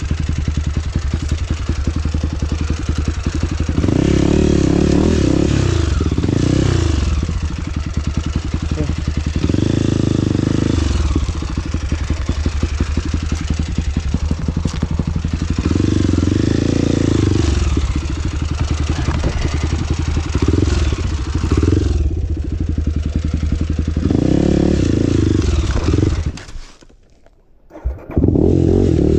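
Trail motorcycle engine running under varying throttle, its note rising and falling every few seconds. Near the end the sound drops away for about two seconds, then comes back at full level.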